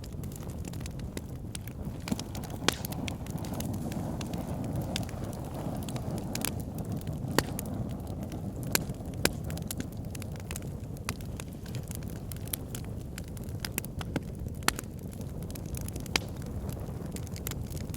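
Backyard fire pit burning, crackling with irregular sharp pops over a steady low rumble of flames, several of the pops standing out loudly.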